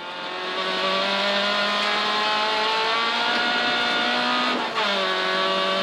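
Suzuki Swift Group N rally car's engine heard from inside the cabin, accelerating with its revs climbing steadily. About four and a half seconds in the revs drop briefly at an upshift, then start climbing again.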